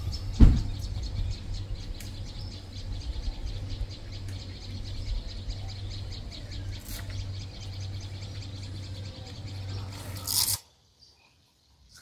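Countryside ambience: birds chirping over a steady low rumble, with a single thump about half a second in. It cuts off shortly before the end.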